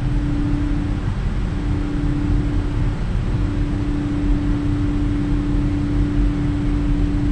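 Steady cabin noise of a Boeing 777-300ER: loud engine and airflow roar, heaviest at the low end, with a steady hum that drops out briefly twice.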